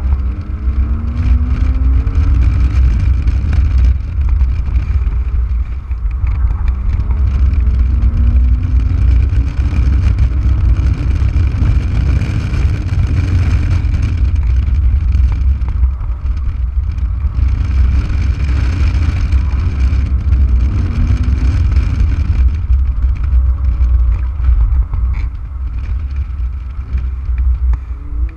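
Porsche Boxster S 987's 3.2-litre flat-six engine under hard track driving, rising in pitch several times under acceleration and falling back between. A heavy wind rumble on the microphone comes from the open cockpit.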